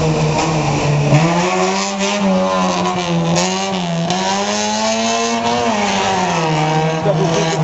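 Autobianchi A112's small four-cylinder engine revving hard as the car is driven through a timed gymkhana course: the pitch rises and falls several times as the driver accelerates and lifts.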